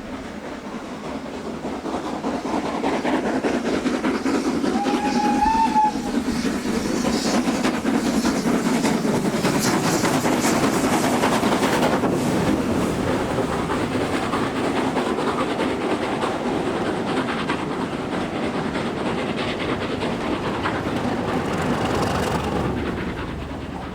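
A steam-hauled train passing close by, with the coaches rattling over the rail joints. About five seconds in there is one short whistle. The train gets louder over the first few seconds and fades near the end.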